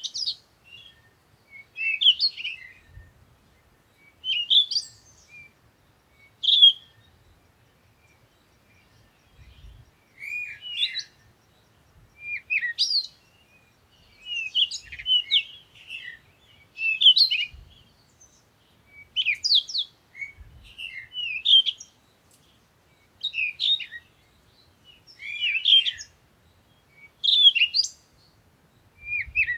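Songbirds chirping and singing in short, repeated phrases about every one to two seconds, with quiet gaps between them.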